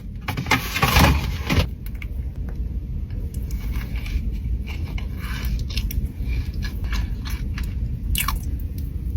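Close-miked biting into a seaweed-wrapped sushi hand roll: a crisp crunch about a second in, then steady chewing with small wet clicks.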